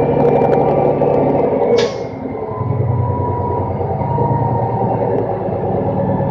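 Roll-off garbage truck's diesel engine running steadily, with a short sharp hiss about two seconds in and a faint whine carrying on afterwards.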